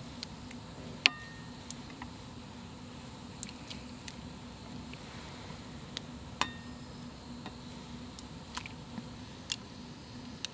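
Camp tableware clinking lightly twice, each clink with a short ring, about a second in and again after about six seconds, among scattered small ticks over a low steady hum.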